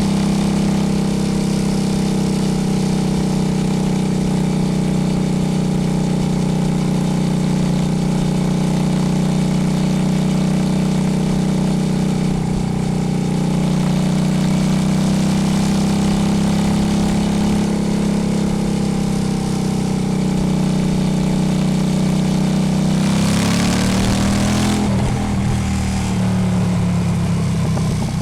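Honda Shadow's V-twin engine running at a steady speed, its note holding level for most of the stretch; near the end the pitch drops and wavers as the engine speed falls, with a brief hiss of noise.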